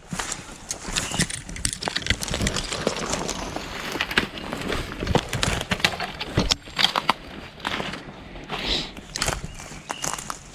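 Footsteps crunching and rustling through dry grass and brush, an uneven run of crackles and snaps.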